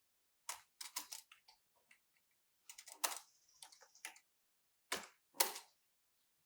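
A scattered series of sharp clicks and knocks of hard objects being handled, the loudest two close together about five seconds in.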